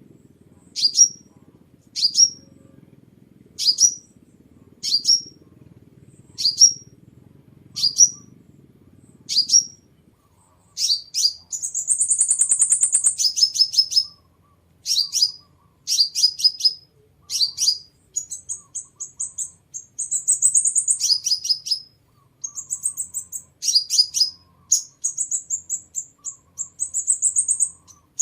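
A sunbird calling and singing: sharp, high call notes repeated roughly every three-quarters of a second for about ten seconds over a faint low hum, then fast, very high trills and twittering phrases.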